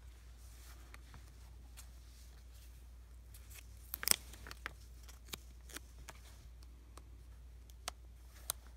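Stickers being handled and stuck down by hand at close range: scattered light crackles and clicks of sticker paper, the sharpest about four seconds in.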